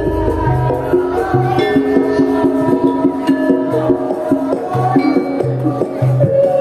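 Traditional Javanese gamelan music for a jathilan (kuda lumping) troupe, played loud through a sound system: held metallophone-like notes over frequent short percussion strikes and deep drum beats.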